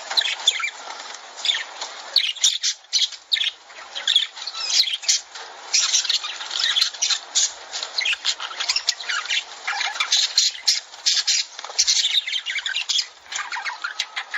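A group of lovebirds chattering in a dense, unbroken stream of short, shrill squawks and chirps.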